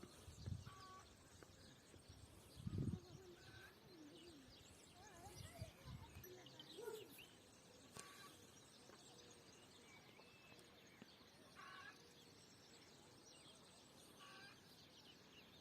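Faint, scattered bird chirps and calls over a very quiet background, with a few soft low thumps in the first three seconds.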